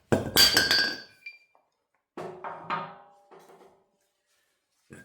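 Steel parts clanking and ringing against each other for about a second, then a few lighter metallic knocks.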